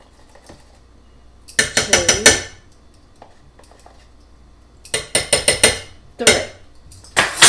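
A metal spoon clinking rapidly against a dish in three short bursts of taps, one for each tablespoon of cornstarch counted out.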